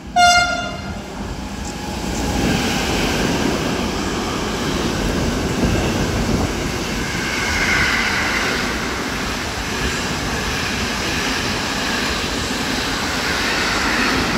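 A short single-tone blast of a freight locomotive's horn, then a long container freight train running past at speed: steady rumble and clatter of wagon wheels on the rails as the container flats go by.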